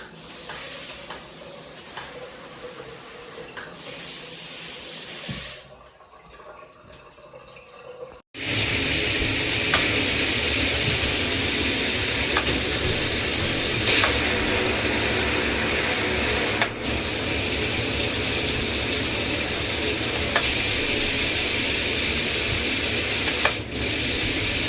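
Shower head spraying water: a moderate hiss of spray with a few light clicks, a brief dip, then about eight seconds in a sudden switch to a loud, steady rush of spray with occasional clicks.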